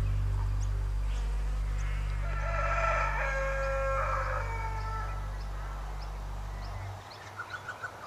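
A rooster crowing once, a drawn-out crow of about two seconds, over a steady low music drone that cuts off near the end. A few quick short chirps follow.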